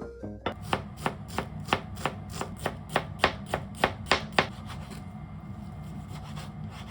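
Kitchen knife chopping on a cutting board in even strokes, about three a second, stopping about four and a half seconds in.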